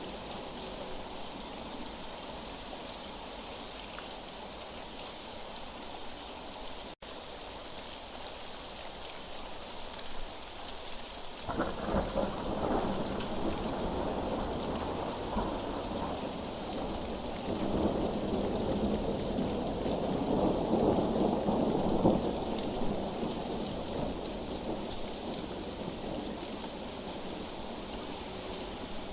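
Steady rainfall with a long roll of thunder that swells about a third of the way in, is loudest around two-thirds through, then dies away. A split-second dropout breaks the rain about a quarter of the way in.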